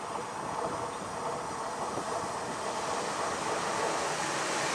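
A freight train headed by a DB Cargo class 189 (Siemens Eurosprinter) electric locomotive approaching on the main line. The noise of its running grows steadily louder as it nears.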